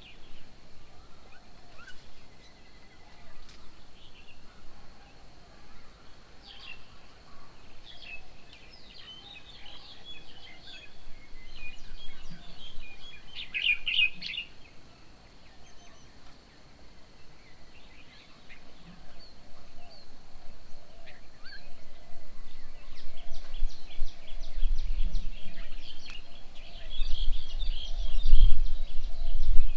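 Several birds chirping and calling, with a dense cluster of calls about halfway and a fast run of repeated chirps in the last few seconds. A low rumble rises underneath near the end.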